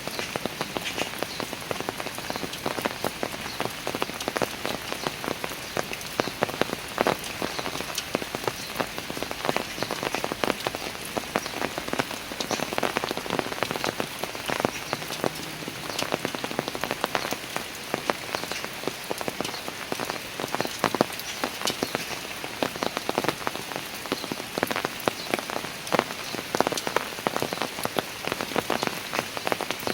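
Steady rain falling on stone stairs, a dense even patter of countless individual drop impacts.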